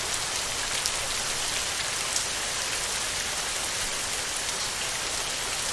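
Steady heavy rain falling on a tin roof, with scattered sharp ticks of single drops striking the metal.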